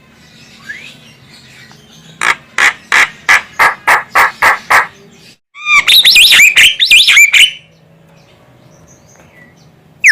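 Female Javan myna (jalak kebo) calling: a run of about ten sharp, evenly spaced calls, about four a second, then a short burst of squeaky chattering with rising and falling notes.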